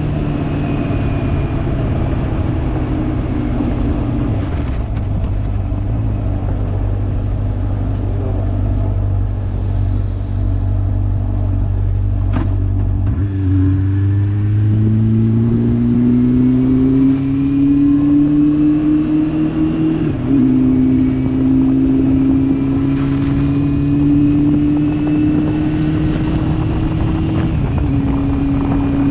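Motorcycle engine under way: steady at first, then rising in pitch as it accelerates from about halfway through. The pitch drops at a gear change, holds steady, and steps again near the end. A low wind rumble on the microphone fills the first half.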